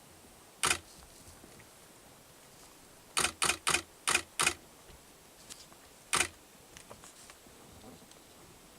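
A series of sharp clicks: one, then a quick run of five, then one more, with a few faint ticks near the end.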